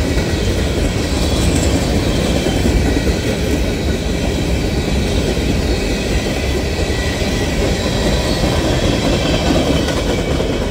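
Empty CSX open-top hopper cars of a rock train rolling past at close range: a steady, loud wheel-on-rail rumble and rattle, with faint high wheel squeal at times.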